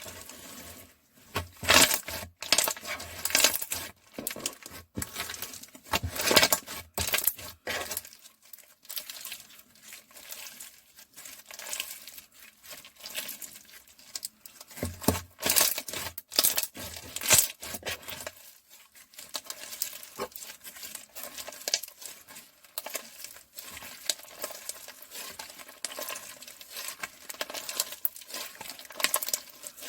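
Crystal (clear) slime being pressed, stretched and folded by hand, giving a dense run of crackly clicks and pops.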